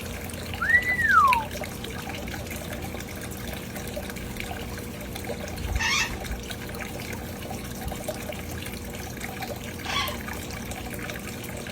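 Water from a bird fountain trickling and spraying steadily, with a single whistle that rises and then falls about a second in, and two short, sharp sounds around six and ten seconds.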